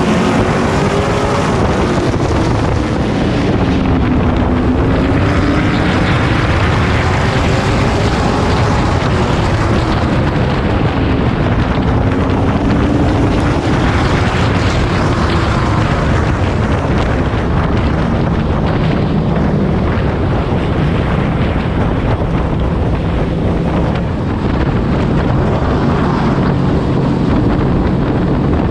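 Race truck engine heard from onboard at race pace, its pitch rising and falling repeatedly as it accelerates and lifts, with wind noise on the microphone.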